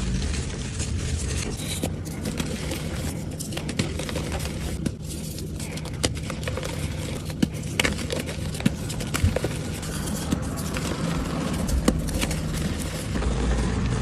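Blocks of dyed gym chalk being crushed and crumbled: many crisp crackles, crunches and scrapes, over a steady low hum.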